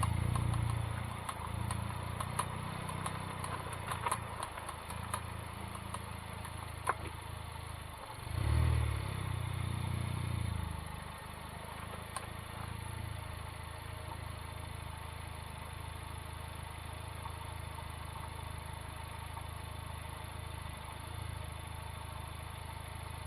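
Honda Civic Type R FK8 moving while turning, its engine running underneath a series of sharp, irregular clicks from the front passenger wheel for the first seven seconds or so, with the CV boot and joint looking intact. The engine swells briefly about eight seconds in, then settles to a steady hum.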